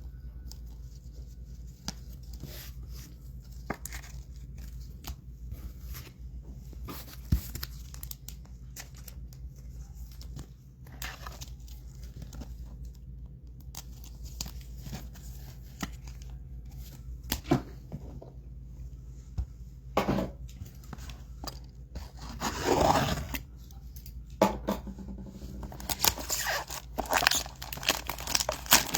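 Trading-card pack wrappers being torn open and crinkled in bursts of rustling. The loudest tear comes about three-quarters of the way in, and the crinkling gets busier near the end.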